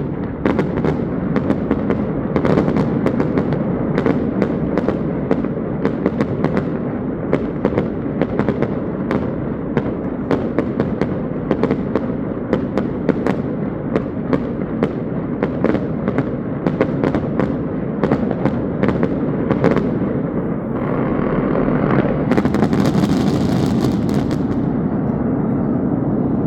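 Fireworks going off in rapid succession: sharp bangs and pops several times a second over a continuous rumble. About 21 seconds in, a hiss lasting a few seconds rises over the bangs.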